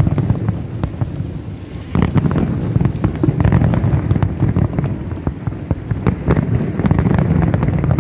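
Fireworks display going off in quick succession: deep booms over dense, irregular crackling, with a stronger bang about two seconds in.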